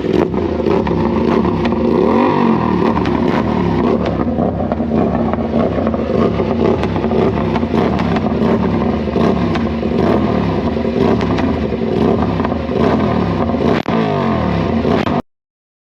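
Motorcycle engine running loud, its revs rising and falling about two seconds in, then cutting off abruptly near the end.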